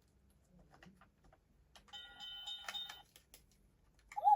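Battery-powered talking toy train's sound chip giving an electronic chime of about a second, a couple of seconds in, after a few light plastic clicks; a brief loud rising tone from it near the end.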